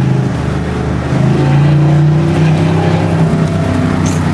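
Car engine and road noise heard from inside the cabin while driving, the engine note dipping and then rising again about a second and a half in as the car accelerates.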